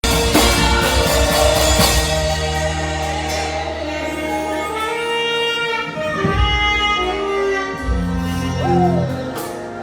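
Live band music with a bass line, drums and sustained chords; a single melody note bends briefly near the end.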